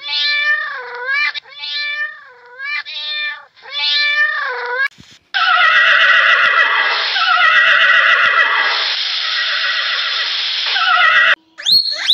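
Two cats yowling at each other in a string of long, wavering calls. About five seconds in, a horse squeals and neighs loudly for some six seconds.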